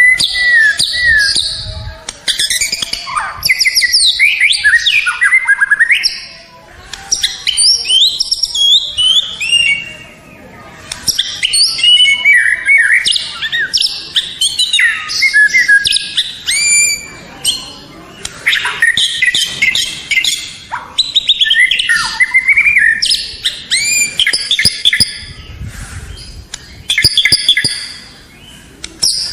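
White-rumped shama (murai batu) singing a rich, varied song of quick whistles, sweeping notes and trills, in bursts of a few seconds with short pauses between them.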